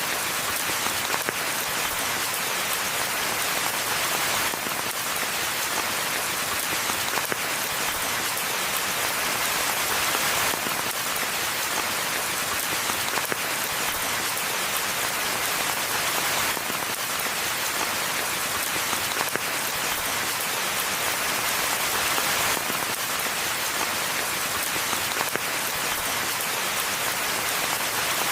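Steady rainfall: a dense, even hiss of drops with a few separate drop hits standing out now and then.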